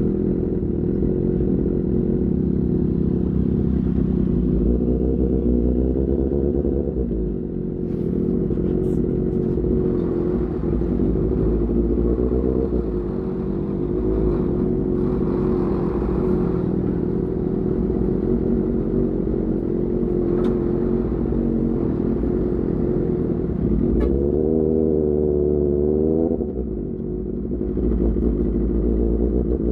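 Motorcycle engine through an Austin Racing GP1R aftermarket exhaust while riding, a steady exhaust note. Twice the pitch climbs under throttle and then dips briefly, as at a gear change.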